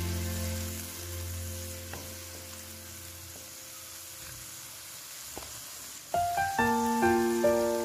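Ground spice paste sizzling as it fries in oil in a wok, with faint scrapes of a wooden spatula stirring it. Background piano music fades out in the first few seconds and comes back about six seconds in.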